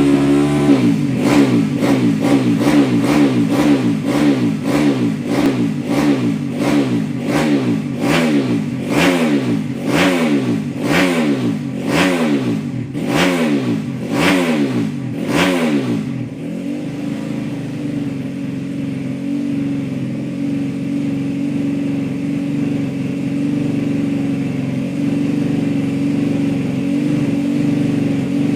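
Race-tuned Yamaha Jupiter 5TP single-cylinder four-stroke engine bored to 130cc, revved in quick repeated throttle blips, about one and a half a second, each rising and falling in pitch. After about 16 seconds it settles into a steady idle.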